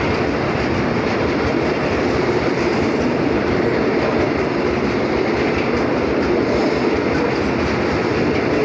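A train running on the rails: a steady, loud noise of wheels and carriages moving along the track.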